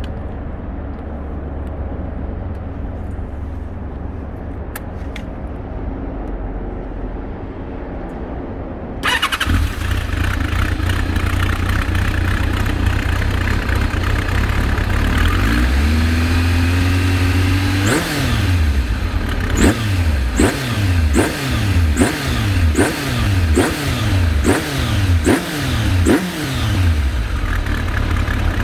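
Kawasaki ZRX1200R's inline-four engine, breathing through Yoshimura TMR-MJN carburettors and a Nojima titanium silencer, running steady and muffled at first, then louder and brighter from about nine seconds in. One slower rev rises and falls, then about ten quick throttle blips follow in a row, each a sharp climb and drop in pitch, before it settles back to a steady idle near the end.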